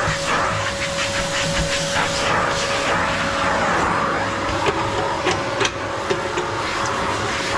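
Vacuum cleaner running steadily with a constant whine as it sucks up dust around a wood stove, with a few sharp clicks partway through.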